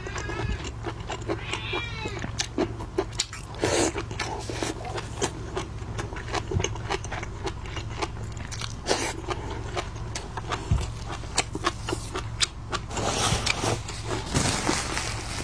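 Close-miked eating of shellfish: a dense, irregular run of sharp clicks and cracks from shells being broken and peeled, with wet chewing and smacking. A short curved, pitched sound comes about two seconds in, over a steady low hum.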